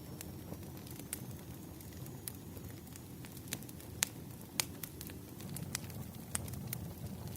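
Wood fire crackling: irregular sharp pops and snaps, the loudest two about four seconds in and half a second apart, over a steady low rumble.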